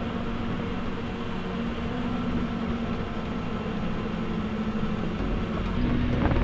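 Motorcycle engine running at a fairly steady pitch with a low rumble underneath, its rebuilt top end fitted with a new piston.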